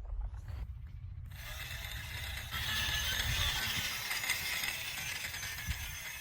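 RC toy train's small motor and gears running, a steady mechanical whirring clatter that sets in about a second in.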